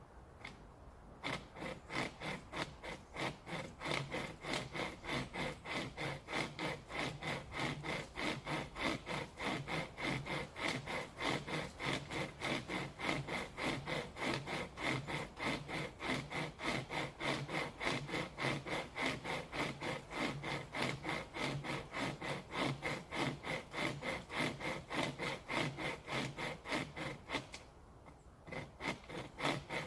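Chain-type survival saw pulled back and forth by hand through a branch, its chain teeth rasping on the wood in a steady rhythm of two to three strokes a second. It starts about a second in, pauses briefly near the end, then starts again.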